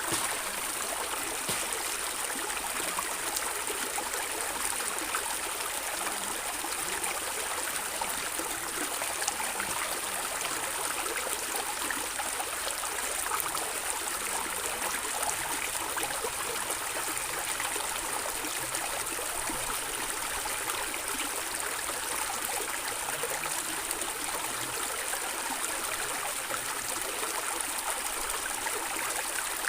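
Running water of a stream gurgling and trickling steadily, with no pauses or changes.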